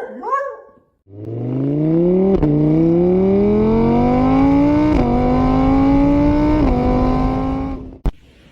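Car engine accelerating, its pitch climbing steadily and dropping sharply three times as it shifts up through the gears, then cutting off near the end.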